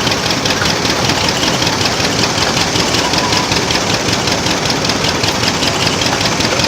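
A tractor's engine running steadily with a rapid, even firing beat while it is being driven.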